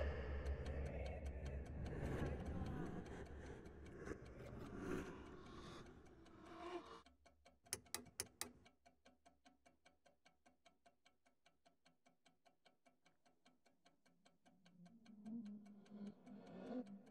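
A clock ticking fast and evenly in a quiet room, under a low rumbling drone that fades out about seven seconds in. About eight seconds in, a bedside lamp's switch clicks four times in quick succession, the lamp not coming on.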